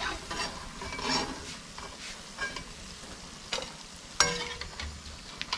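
Pakoras deep-frying in a pan of hot oil, a steady sizzle, with a metal ladle clinking and scraping against the pan. The loudest sound is a sharp, ringing metal knock about four seconds in.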